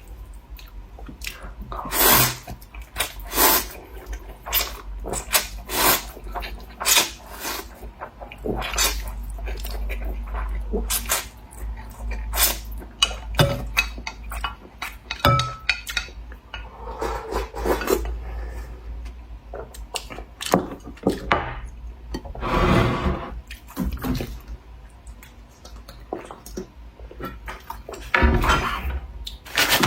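Eating noodles: chopsticks clicking and tapping against a bowl many times, with wet mouth sounds of chewing and slurping in several longer stretches.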